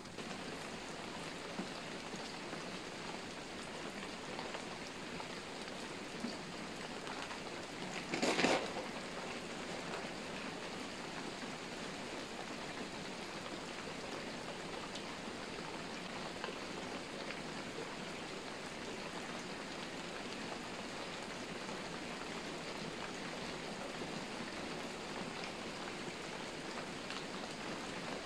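Steady rain falling, an even hiss of drops, with a brief louder rush about eight seconds in.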